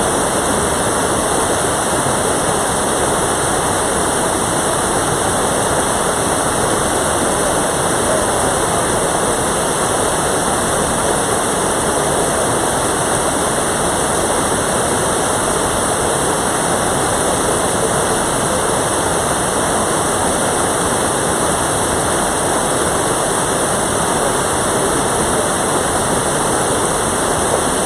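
Mountain valley stream rushing, a steady, loud wash of running water.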